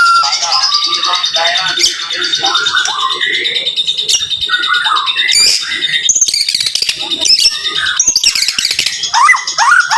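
White-rumped shama (murai batu) singing a rapid, dense run of whistles, chirps and harsh notes, the close-fire 'tembakan' song, ending in a quick series of repeated sweeping notes near the end.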